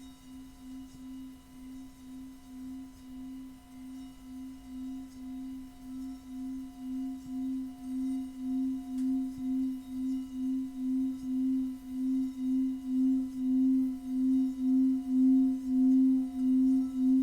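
Metal singing bowl sounding one low tone with fainter higher overtones. The tone wavers about twice a second and swells steadily louder.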